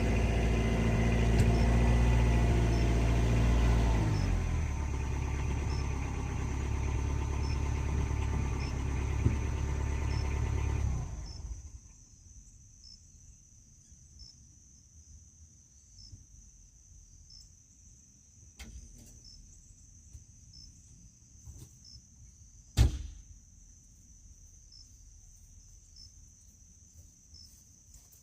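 A vehicle engine runs steadily for about eleven seconds, settling slightly lower about four seconds in, then stops abruptly. After that there is only a faint steady high whine, a few light ticks, and one sharp knock a little past the middle of the quiet stretch.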